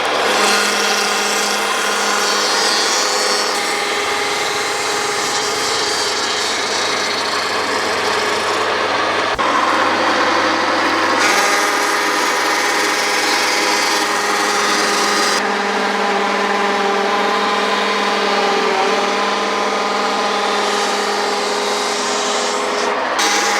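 Home-built table-top flax fibre stripper running as harakeke flax leaves are stripped: a steady motor hum with a rough scraping, rasping noise over it. The sound shifts abruptly a few times.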